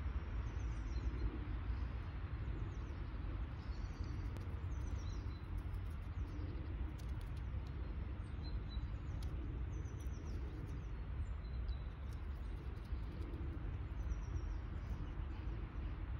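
Small birds chirping now and then in short high calls, over a steady low rumble of outdoor background noise.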